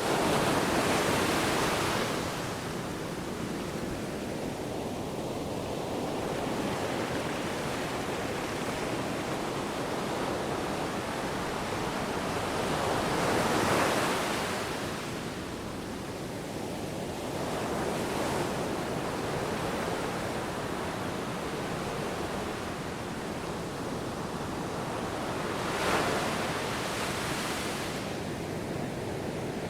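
Sea waves washing and breaking in a steady rush of surf, with louder breakers swelling up several times: near the start, around the middle and near the end.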